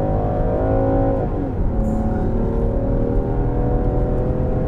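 Land Rover Defender's engine pulling at full throttle while towing a loaded car trailer of about 1,700 kg, a really punchy sound. Its pitch climbs, drops at an upshift of the eight-speed automatic about a second and a half in, then climbs again.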